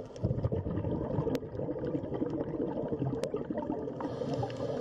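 Underwater water sounds: a steady low wash with two sharp clicks, about one and a third and about three and a quarter seconds in.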